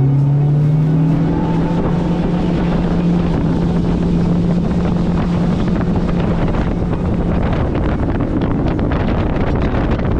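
90 horsepower Evinrude outboard motor on an inflatable Thundercat boat running hard at speed, its steady engine note mixed with rushing wind and water. After about seven seconds the engine tone fades under the wind noise.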